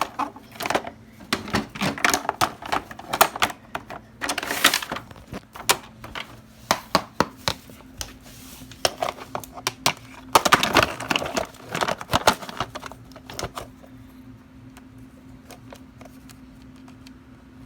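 Plastic dolls and toys being handled: a long run of clicks, taps and knocks, thinning out over the last few seconds, with a faint steady hum underneath.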